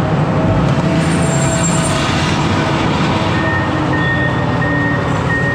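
A truck engine running steadily with road noise, with a faint steady whistle joining in partway through.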